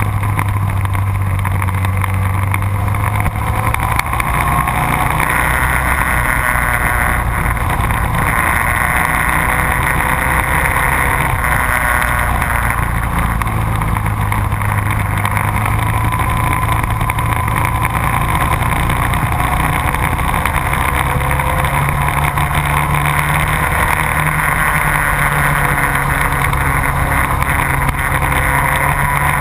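Motorcycle engine running on a track lap, heard from an onboard camera under heavy wind rush, its pitch stepping up and down as the throttle and gears change.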